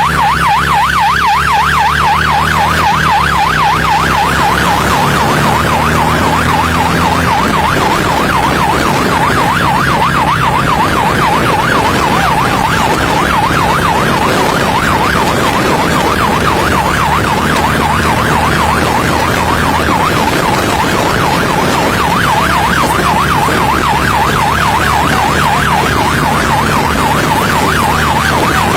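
Police siren in a fast yelp, its pitch rising and falling about four times a second, with an engine running underneath.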